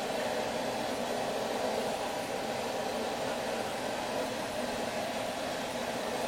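Steady rushing noise, even and unbroken, with no strikes or changes in level.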